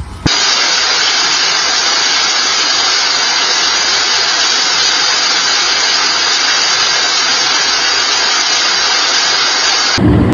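A loud, steady rushing hiss with no tone or rhythm. It starts suddenly just after the beginning and cuts off suddenly near the end.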